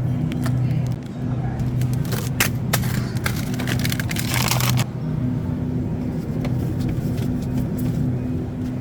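A car engine running with a steady low hum. A cluster of clicks and rattles comes between about one and five seconds in.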